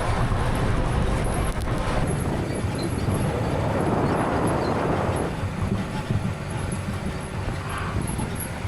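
A vehicle running with a steady low rumble. A rushing swell rises and falls about four to five seconds in.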